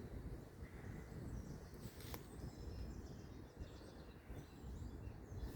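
Faint birdsong, a few short scattered chirps, over a low steady rumble, with one sharp click about two seconds in.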